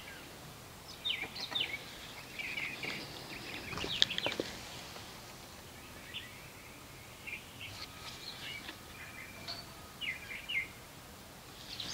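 Birds chirping in short scattered calls over faint outdoor background noise, with one sharp click about four seconds in.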